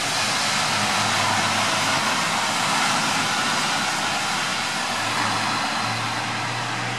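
Steady rain falling, an even hiss, with a faint low hum underneath that grows a little stronger near the end.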